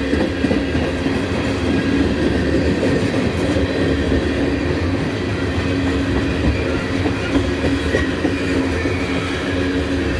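Freight train of tank cars rolling past, its steel wheels on the rails making a steady, loud growl rather than a hum. The growl comes from the small grooves that rail grinding has left in the railheads.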